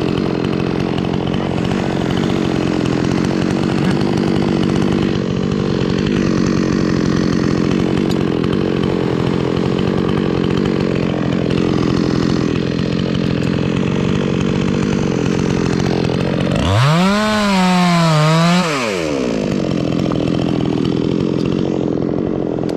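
Chainsaw running steadily, cutting wood. About 17 seconds in, a saw revs up sharply and drops back down.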